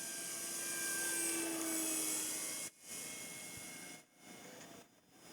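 Electric motor and propeller of a large radio-control model Cessna 182 in flight, a whine that slowly falls in pitch, dipping sharply three times in the second half.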